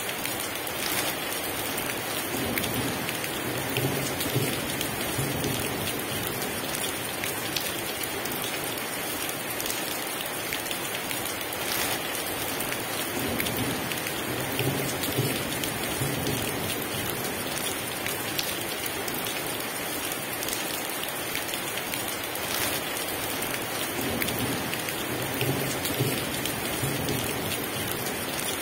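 Heavy rain pouring steadily, with low rumbles of thunder swelling three times, about ten seconds apart.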